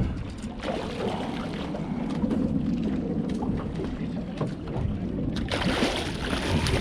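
Steady wind and water noise on a small open fishing boat, with a few light knocks. A louder rush of noise comes in about five and a half seconds in.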